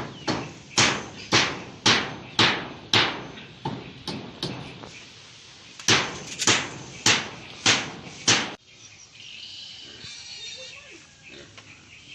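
Hammer blows in a steady rhythm of about two a second: a run of about nine strikes, a short break, then five more, each hit ringing briefly. The hammering stops two-thirds of the way through.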